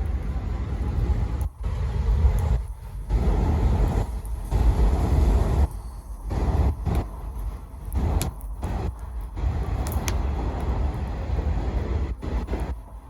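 Bonfire crackling, with a few sharp pops, under heavy gusty rumble from wind buffeting the microphone that swells and drops off abruptly.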